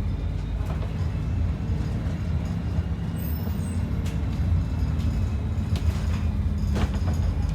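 ADL Enviro 400 double-decker bus running steadily with a low diesel engine hum, heard from inside the cabin. A few sharp rattles from the bodywork come about four, six and seven seconds in.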